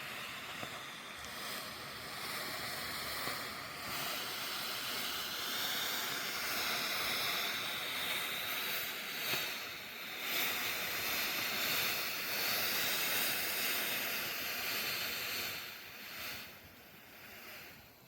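Orange smoke firework burning with a steady hiss as it pours out smoke; the hiss dies away near the end.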